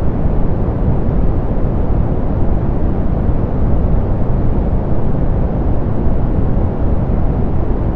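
Steady synthetic pink noise, softened so its weight sits in the lows and it fades out toward the treble: an even, unchanging hiss-rumble with no events.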